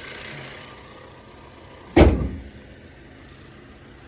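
A car panel slammed shut once about two seconds in, a single heavy thud, over the low steady idle of a 2022 Toyota Corolla's 2.0-litre four-cylinder.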